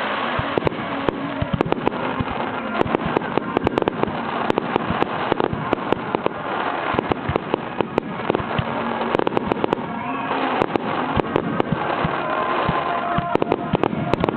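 Aerial fireworks display going off in a dense, continuous barrage: many sharp crackles and pops in quick succession over a steady rumble of bursts.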